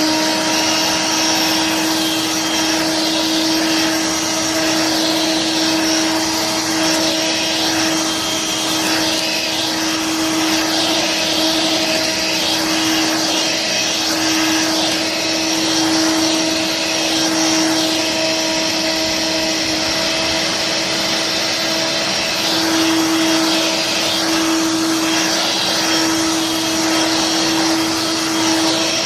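Dirt Devil Vibe corded stick vacuum running steadily at full speed, a constant motor whine over a rush of airflow.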